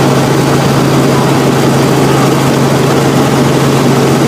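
Helicopter in flight: a loud, steady engine and rotor drone with a constant low hum under a continuous hiss.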